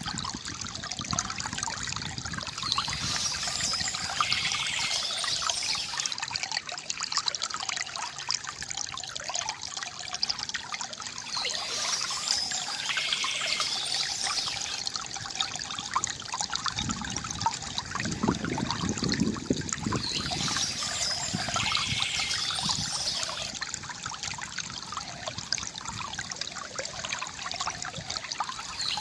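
Water trickling and pouring steadily from a bamboo fountain spout, with a deeper gurgle about two thirds of the way through. Birds chirp in short bursts that come back about every nine seconds.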